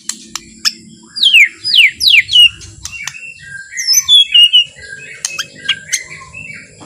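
White-rumped shama (murai batu) singing: first three loud whistles that slide downward, then a run of shorter, varied warbled notes, with sharp clicks in between.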